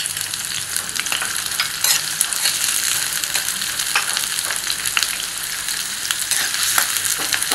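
Chopped onion and green chilli sizzling in hot oil in a kadai, with a steadily hissing fry. A steel spoon stirs through them, scraping and tapping against the pan every second or so.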